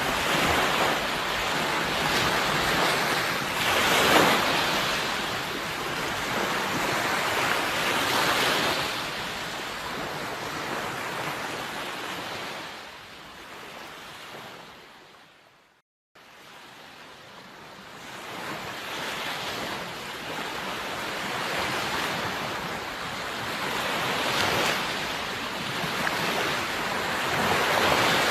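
Sea waves breaking and washing on a shore, swelling and ebbing every few seconds. About halfway through the sound fades to a moment of silence and then fades back in.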